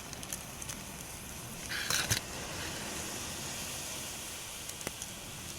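Campfire crackling over a steady hiss, with scattered small pops and a short, louder rustle about two seconds in.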